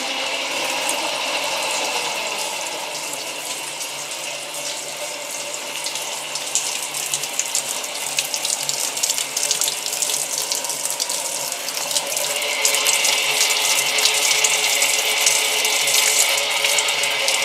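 Electric rotation drive of a poultry slaughter cone stand running steadily: a hum with a hissing noise over it, which grows louder about twelve seconds in.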